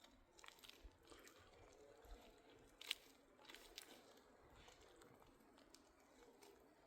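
Near silence, with a few faint scattered clicks and rustles; one sharper click about three seconds in.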